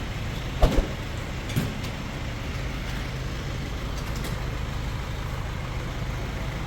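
Car engine running with road noise, heard from inside the cabin as a steady low hum. A short thump comes under a second in.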